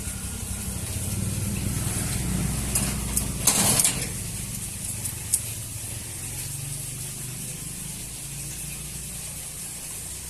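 A motor running steadily with a fast, even rattle, and a short burst of hiss about three and a half seconds in.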